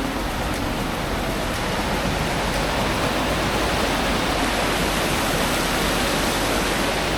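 Steady rushing noise that swells slightly through the middle and then eases.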